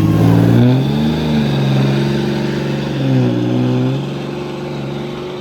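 Vehicle engine being revved: its pitch swells up and back down about a second in, again around three seconds in, and then settles.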